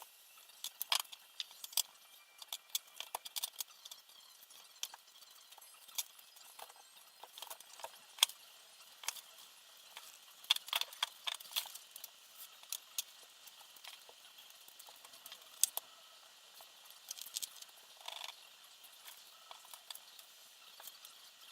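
Irregular light clicks and clinks of small hard parts being handled and set down, with a busier cluster of clicks about halfway through.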